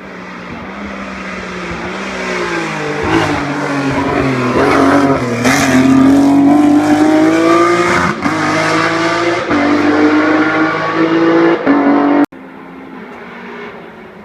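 A Renault hillclimb race car at full throttle, its engine note climbing and dropping through gear changes as it draws closer and louder, with several short sharp breaks in the sound. About twelve seconds in the sound cuts abruptly to a quieter, more distant engine.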